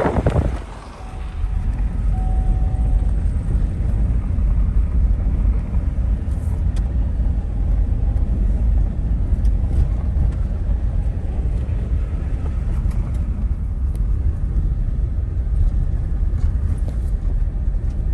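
Car driving: a steady low rumble of engine and road noise. A loud rush of noise at the very start cuts off about half a second in.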